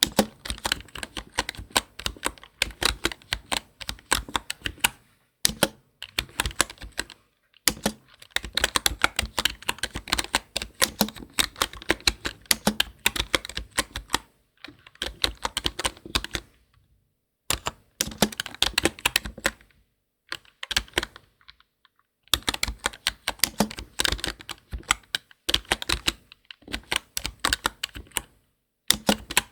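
Computer keyboard being typed on in runs of rapid key clicks, each a few seconds long, broken by short pauses.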